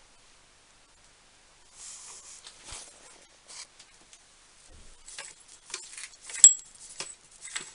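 Faint scattered clicks and rustles of handling, with one sharper click about six and a half seconds in that rings briefly with a thin high tone.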